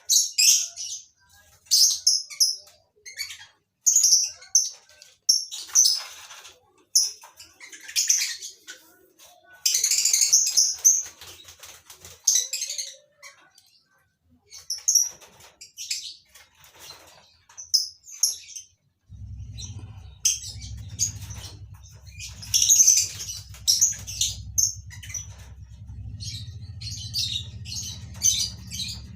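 Colony of lovebirds chirping in repeated shrill bursts, with wings flapping. About two-thirds of the way through, a steady low hum comes in under the birds.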